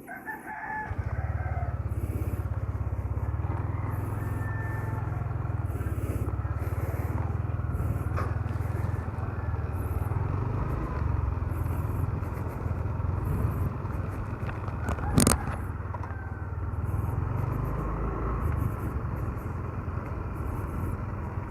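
Motor scooter riding along, its engine running steadily under a low wind rumble on the microphone, with one sharp knock about two-thirds of the way through.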